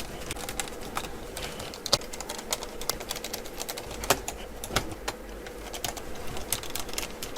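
Irregular light clicks and taps of hands handling laptop parts during a battery replacement, over a faint steady hum.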